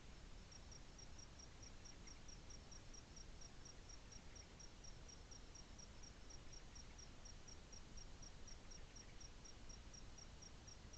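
A cricket chirping faintly and steadily, short high chirps about four times a second, over a low background hiss.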